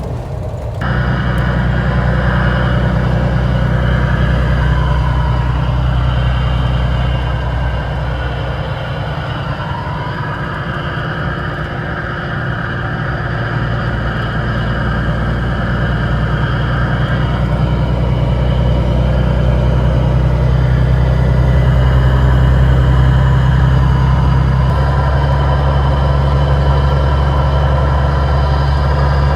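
Kenworth semi-truck's diesel engine running, a steady low drone whose pitch shifts a couple of times, around ten seconds in and again near the end.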